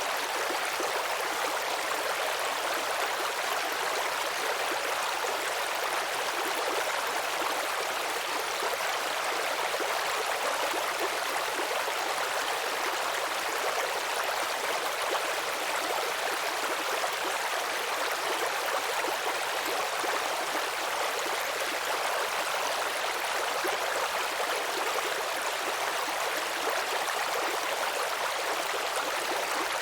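Shallow babbling brook: water trickling and burbling over stones in a steady, unbroken rush with a hissy, bright character and little low rumble.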